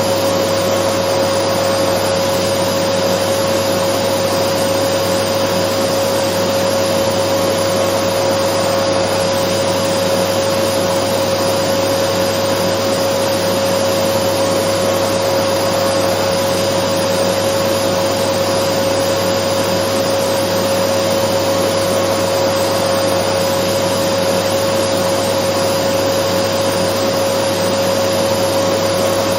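Dyson vacuum cleaner running continuously, a steady, even rush of noise with a constant motor hum on top that never changes.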